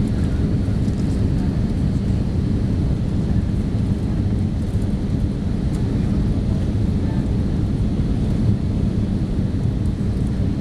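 Steady low rumble of engines and airflow heard inside the cabin of an Airbus A318 airliner descending on approach, with a faint hum running through it.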